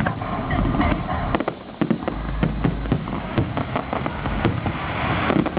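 Fireworks going off in a display: a dense run of sharp bangs and crackles, several a second, over a continuous low rumble.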